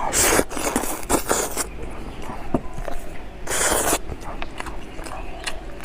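Close-miked eating: bites and crackly crunching of food, in two noisy bursts (the first lasting over a second, the second about half a second) with small clicks between.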